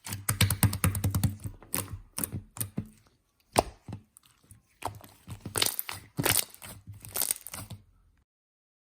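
Slime being squished and stretched by hand: a run of sticky clicks, pops and crackles in bursts, which stops abruptly about eight seconds in.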